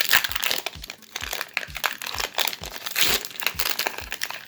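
Foil wrapper of a Pokémon TCG booster pack crinkling in a dense run of crackles as it is handled and torn open by hand.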